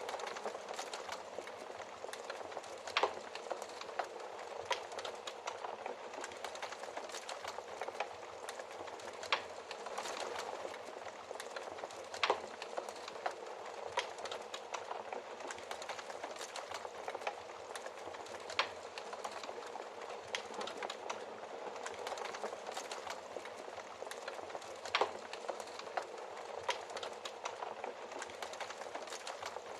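Wood fire crackling in a fireplace: a steady low hiss of burning with frequent sharp, irregular pops and snaps.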